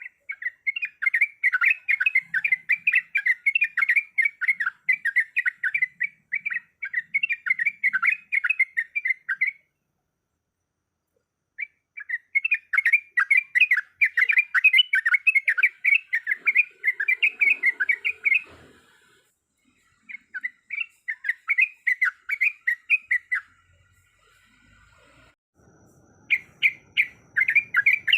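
Yellow-vented bulbul (trucuk) singing long runs of rapid, bubbly chattering notes, with short pauses about ten seconds in, near twenty seconds, and for a few seconds before the end, when the song starts again.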